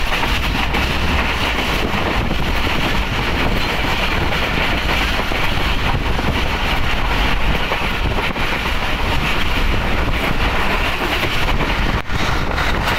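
Passenger train running steadily at speed, heard from aboard beside an open carriage window: a continuous rumble of wheels on the rails.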